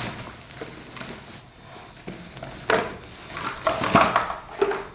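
Hard plastic pieces clattering and knocking together in a few short bursts, the loudest about four seconds in.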